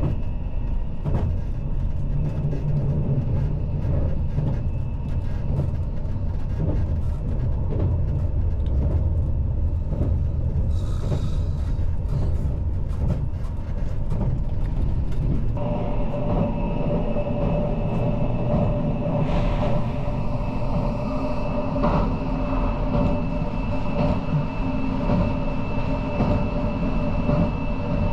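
Running noise heard inside a JR Shikoku 8600 series electric train at speed: a steady rumble with frequent light clicks. About halfway through, the low rumble eases and a steady hum of several held tones comes in.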